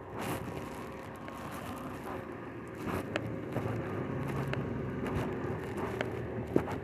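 A vehicle engine running steadily, with a few sharp clicks over it, the loudest near the end.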